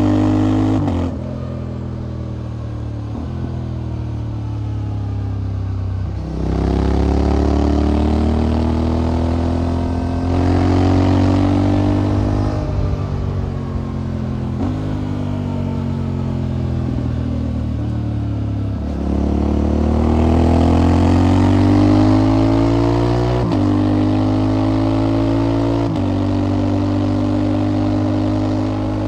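Motorcycle engine and exhaust under way, revs climbing under acceleration and dropping sharply at each gear change, with several shifts in a row and short stretches where the revs hold steady or fall off.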